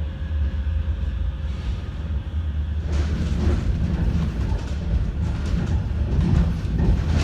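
Manchester Metrolink tram running along its line, heard from inside the carriage: a steady deep rumble of wheels and running gear that grows busier about three seconds in.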